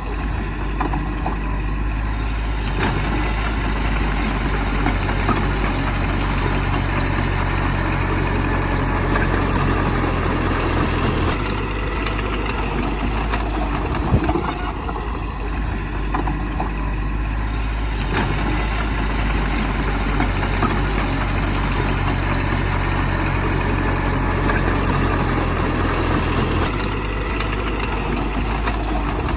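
Heavy diesel engine of earthmoving machinery running steadily, its engine note shifting with load about a third of the way in and again near the end, with a few sharp clanks.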